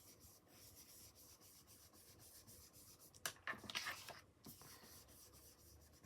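Faint rubbing of an ink blending brush on smooth cardstock as black ink is worked into the edges, with a louder flurry of strokes about three and a half seconds in.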